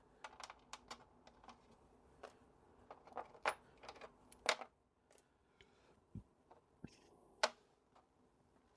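Small brake master cylinder parts being put into a tray one by one: an irregular run of light clicks and clinks, a few louder ones about halfway and near the end.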